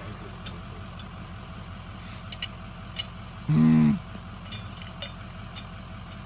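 Truck engine idling with a steady low pulse; about three and a half seconds in, a vehicle horn gives one short, steady honk, with a few light clicks just before it.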